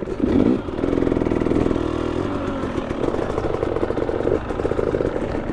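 Two-stroke dirt bike engine revving on a steep hill climb, its pitch rising and falling with the throttle.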